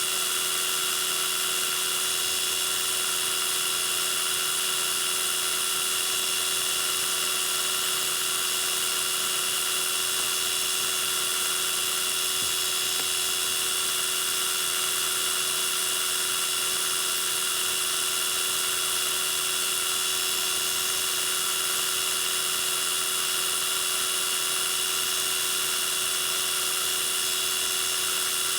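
Metal lathe running steadily, its motor and spindle giving an unchanging high-pitched whine.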